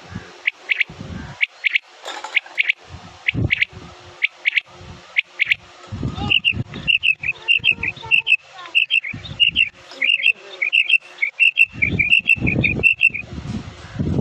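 Game-bird calls used as a hunting lure: short, sharp chirping notes, spaced at first, then from about six seconds in a fast run of about three a second. Low thumps sound now and then.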